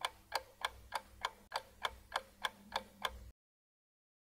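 Clock-style ticking sound effect for an answer countdown timer, even ticks about three a second, which stops a little over three seconds in.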